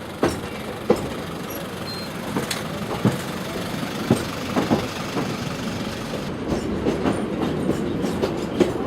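Passenger train carriage running along the line: a steady rumble and rattle with the wheels clicking over rail joints, the clicks coming more often in the last few seconds.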